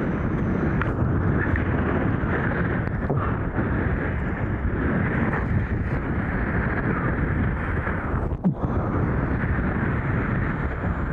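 Strong wind buffeting an action camera's microphone on a Hobie 16 catamaran sailing fast in near 30-knot wind: a steady loud rushing, with a brief dip about eight and a half seconds in.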